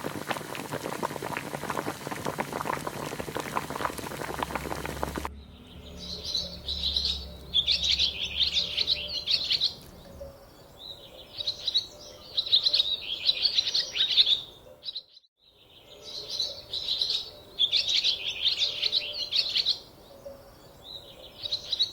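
A pot of chicken soup bubbling at the boil for about five seconds, then cut off abruptly. After that come small birds chirping in repeated bursts of rapid, high twittering, each a second or two long with short pauses between.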